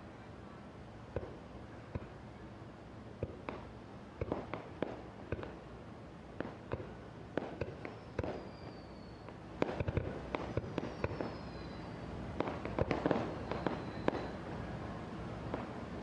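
Fireworks shells bursting in a quick series of booms and cracks that grows denser in the second half, with a few high whistles falling in pitch partway through.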